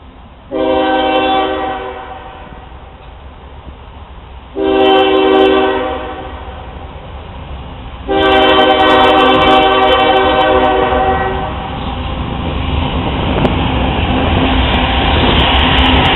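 Locomotive air horn sounding three blasts: two of about a second each, then a longer one of about three and a half seconds. After that the rumble of the approaching train grows steadily louder.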